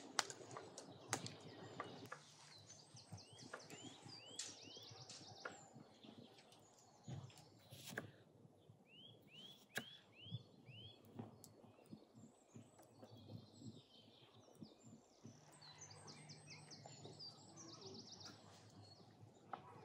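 Songbirds calling faintly: two runs of four or five short, sharply arched chirps, and quick high trills. A few faint knocks are heard among the calls.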